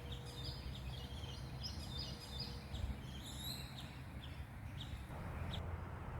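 Wild birds chirping and calling in wet bushland: many short high chirps in quick series, over a steady low rumble. A soft hiss comes in about five seconds in.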